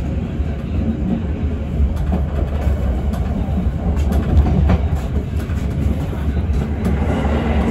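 Passenger train running along the track, heard from the rear of the last carriage: a steady low rumble of wheels on rails with a few sharp clicks.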